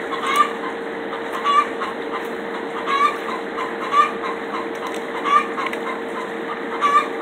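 A bird calling in short, regular notes, six in all, about one every second and a quarter, over a steady hum.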